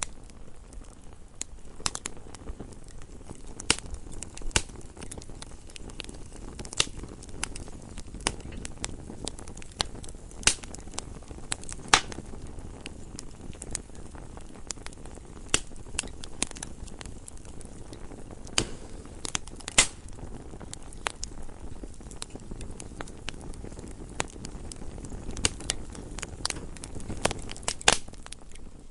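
Wood fire burning in a fireplace: a low steady rumble of the flames with irregular crackles and occasional sharp pops from the burning logs.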